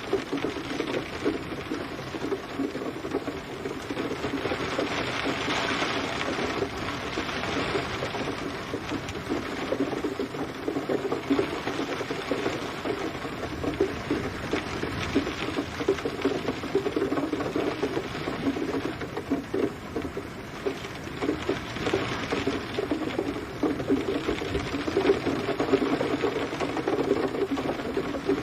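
Steady rain falling, a dense, continuous patter of drops with no letup and no thunder.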